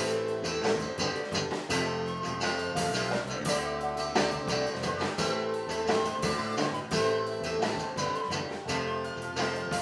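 Rock band playing an instrumental passage without singing, with guitar strummed and plucked over steady held notes and a regular beat.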